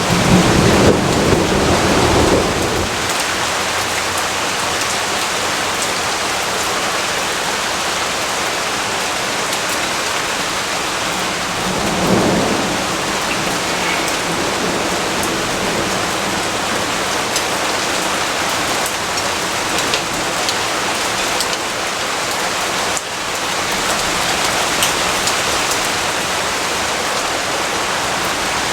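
Steady rainfall, with low thunder rumbling in the first couple of seconds and again briefly about twelve seconds in.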